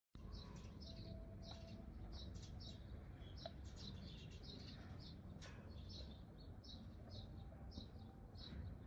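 Small birds chirping: a long run of short, high chirps, several a second, over a faint low rumble.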